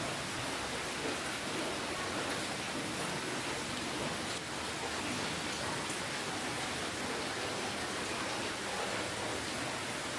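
Steady rainfall: an even hiss of rain with faint patter of drops.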